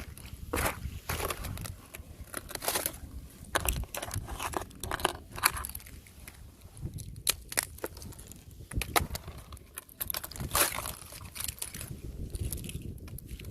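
Fresh thin ice crunching and cracking underfoot: a string of irregular sharp cracks and crunches, the loudest about five seconds in and again near ten and a half seconds.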